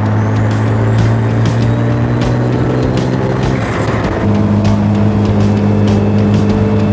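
Twin-turbo 1924 Bentley's engine pulling steadily at freeway speed, heard from the open car with wind rushing past. A turbo whistle rises in pitch over the first few seconds, and the sound breaks and changes about four seconds in.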